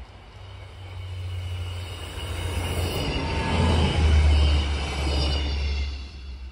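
GKB diesel multiple unit passing close at speed: rumble and wheel noise build to a peak about four seconds in, with a falling pitch as it goes by, then fade as it moves away.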